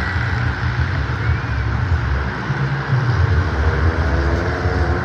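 Monster truck engine running hard during a run, getting louder about three seconds in.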